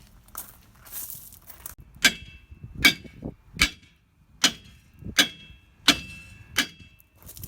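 Seven evenly spaced hammer blows on metal, each with a short ringing clang, starting about two seconds in.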